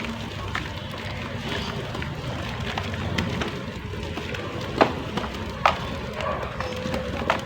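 Water pouring onto a dry, shaped lump of mud, with fizzing and crackling as the water soaks in and the mud crumbles. Three sharper cracks stand out, about five, six and seven seconds in.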